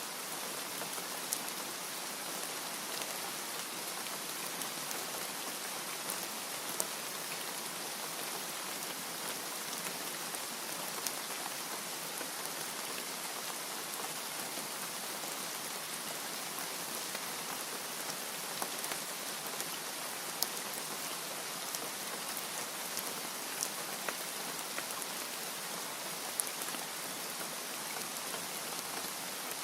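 Steady rain falling, an even hiss with scattered ticks of individual drops hitting a surface.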